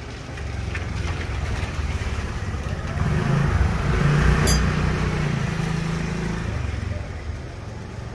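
A motor vehicle engine passing close by: a low rumble that swells to a peak around the middle and then fades away.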